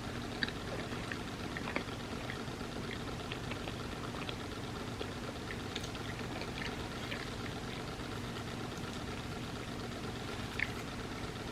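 Quiet eating sounds of crepe cake: scattered soft clicks of chewing and lip smacks, a few sharper ones near the start and about ten seconds in, over a steady background hum.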